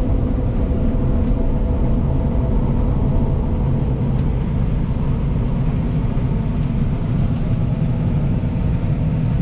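Combine harvester running steadily while cutting soybeans: a constant low rumble of engine and threshing with a few faint steady tones on top. It is running smoothly.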